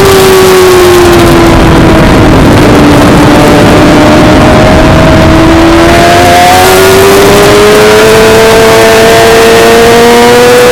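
Suzuki GSX-R600's inline-four engine heard onboard at high revs under a dense rush of wind noise. Its pitch sags over the first few seconds, then climbs steadily as the bike pulls hard through the gear.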